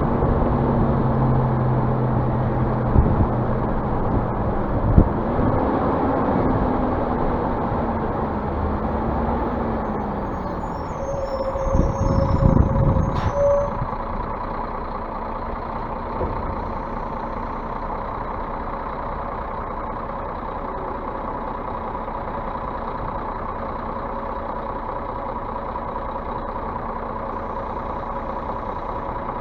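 Scania bus diesel engine running, its pitch rising and falling as it revs a few seconds in, with a louder noisy stretch about twelve seconds in, then settling to a steady idle.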